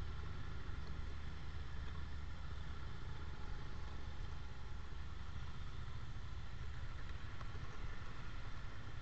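Motorcycle and scooter engines idling and creeping in slow traffic, with cars around: a steady low engine rumble that does not change.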